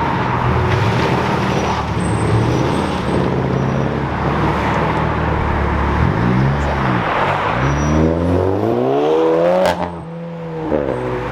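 Car engines revving hard as cars accelerate away, the engine pitch climbing and dropping through the revs, with a long climb in the last few seconds that breaks off suddenly near the end.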